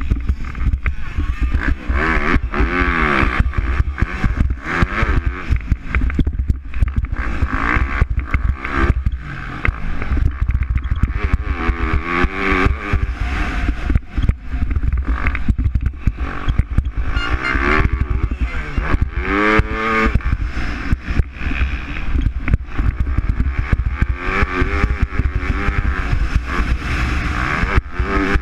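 MX2 motocross bikes racing on the track, their engines revving up and falling back again and again as riders accelerate, shift and pass. A constant low rumble runs underneath.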